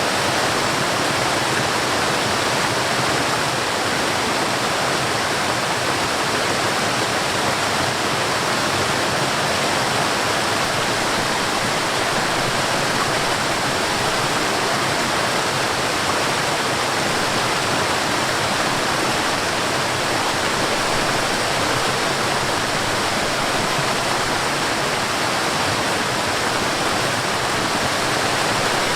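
Mountain stream and small waterfalls rushing over rocks: a steady, even wash of moving water with no breaks.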